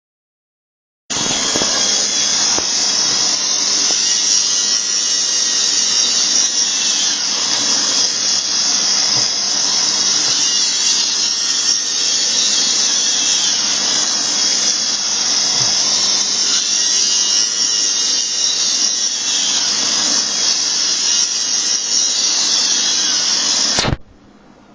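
iRobot Roomba 770 robot vacuum running, its suction motor and brushes giving a loud, steady whirring hiss while the robot is caught in a corner trap. It starts abruptly about a second in and cuts off suddenly near the end.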